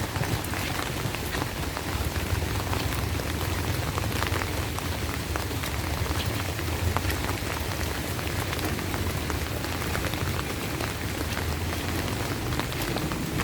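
Steady rain falling, with many separate drop hits close to the microphone over an even hiss.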